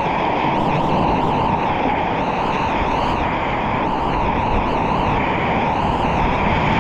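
Steady loud rush of whitewater from a river wave, close up.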